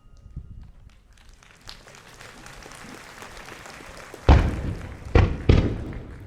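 Fireworks display: a faint hiss and crackle builds, then three loud booms of aerial shells bursting, about four, five and five and a half seconds in.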